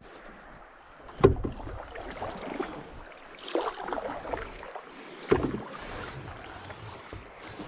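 Canoe being paddled: three paddle strokes about two seconds apart, each a short splash and swish of water, over a steady outdoor hiss.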